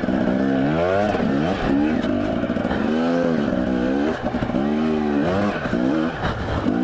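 Two-stroke Husqvarna dirt bike engine being ridden, revving up and dropping back about five times as the throttle is worked.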